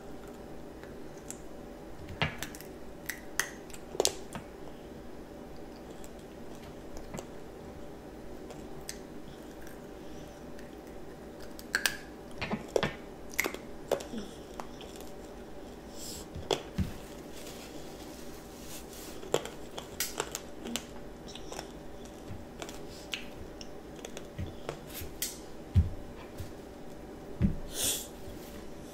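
A child chewing sugar-coated candied strawberries: irregular wet mouth clicks and smacks, in clusters with pauses between, over a steady background hum.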